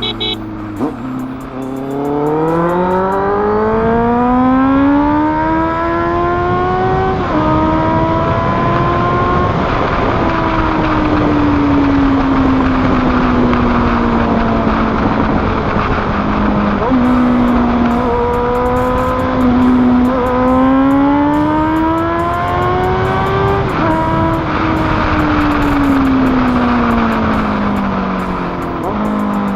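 Honda CBR motorcycle engine through an SC Project aftermarket exhaust, pulling hard with its pitch rising, then dropping back at shifts about seven and ten seconds in. It holds a steady cruise, eases off, and pulls and drops again in the second half, over steady wind rush.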